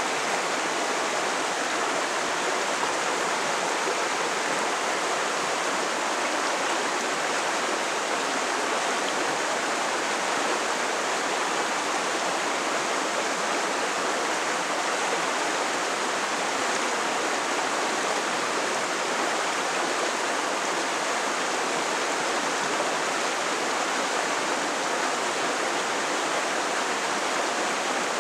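Creek water running and rushing over rocks, a steady even rush with no breaks.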